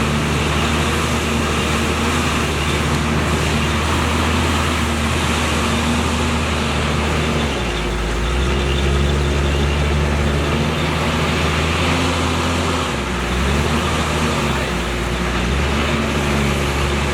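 Heavy diesel engine of construction machinery running steadily. Its engine note shifts about halfway through and again a few seconds later, as the revs change under work.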